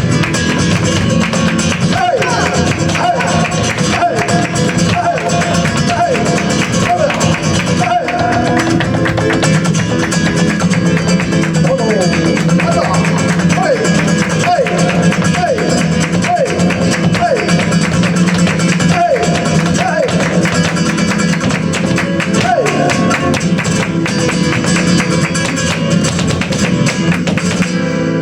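Flamenco guitar playing a farruca, overlaid by a dense, rapid run of percussive strikes from the dancer's footwork (zapateado).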